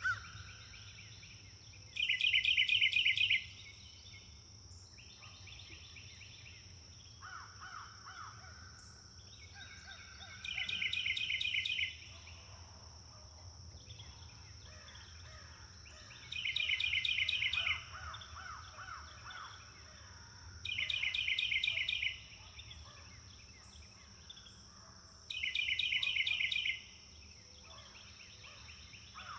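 Forest birdsong: one bird repeats a loud phrase of rapid, evenly spaced notes about every four to five seconds, five times, while quieter birds call between the phrases. A steady high-pitched hum runs underneath throughout.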